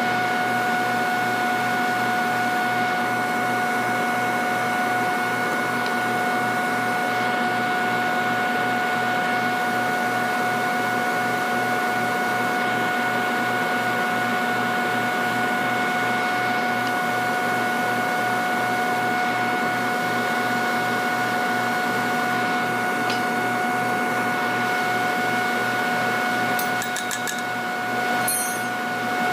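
Workshop machinery running steadily: a constant high whine over a noisy hum with a fast low pulsing. There is a brief dip and a few light clicks near the end.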